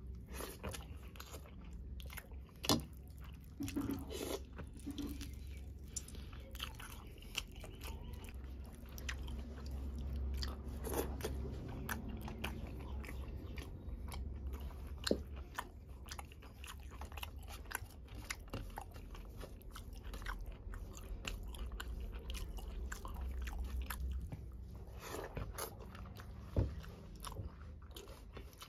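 Close-up sounds of a person eating rice and curry by hand: chewing and mouth clicks, with fingers mixing rice in the gravy on a steel plate. Short sharp clicks come through every few seconds.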